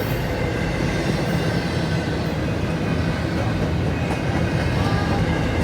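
A train rolling past, its railcars' wheels making a steady, loud running noise on the rails.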